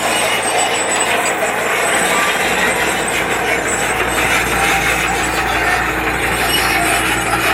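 Heavy earthmoving machine at work: a steady diesel engine with a broad mechanical rumble and grind, and a deeper low rumble that comes in about two and a half seconds in.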